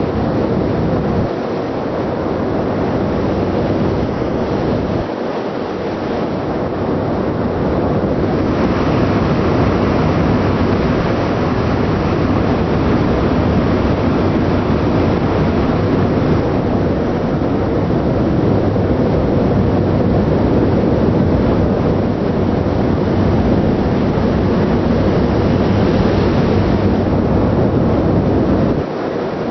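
Steady wind rushing over the microphone, with the ship's engine and exhaust vent running underneath as a low, even rumble.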